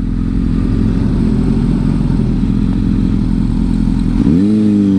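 Motorcycle engine running while riding, under low wind rumble. About four seconds in, the engine note rises sharply and holds at a higher pitch.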